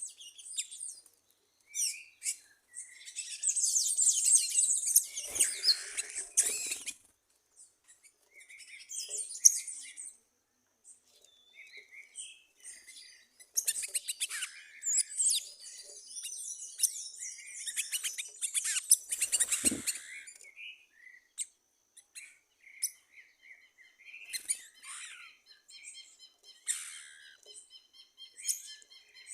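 Several wild birds chirping and singing in overlapping bursts of high, rapid notes, with a run of short evenly repeated notes near the end.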